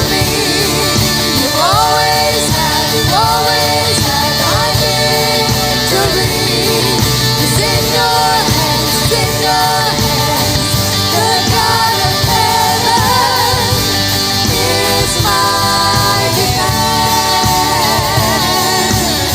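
Contemporary worship song: a singer's voice, with vibrato, over a full rock-style band with guitar.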